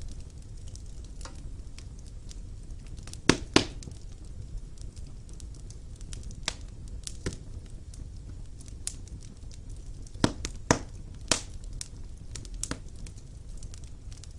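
Wood fire burning in a stone fireplace: a low steady rumble of flames with irregular sharp crackles and pops, the loudest a pair of pops about three seconds in and three more around ten to eleven seconds in.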